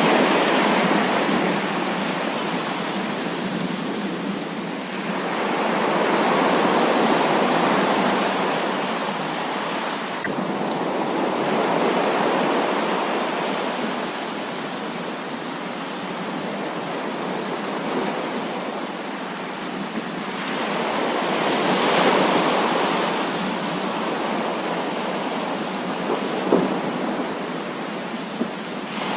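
Heavy rain pouring steadily, with the storm noise swelling and easing every several seconds like rolling thunder. A couple of short sharp cracks come near the end.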